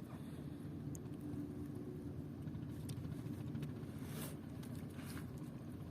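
Boat engine running steadily with a low hum, with two brief hissy noises, such as a splash or a rustle, about four and five seconds in.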